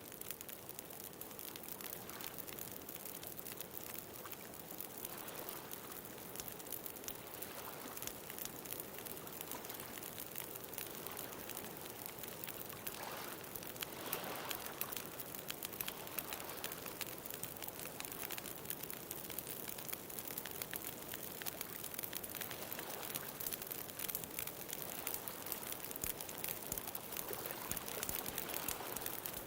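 Bonfire crackling with a dense run of small pops and snaps over a steady wash of ocean waves.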